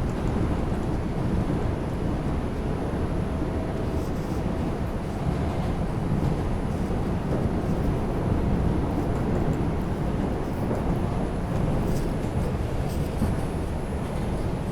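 Steady running rumble of an R142 subway car heard from inside the car as the train travels between stations, with a few faint clicks about four and twelve seconds in.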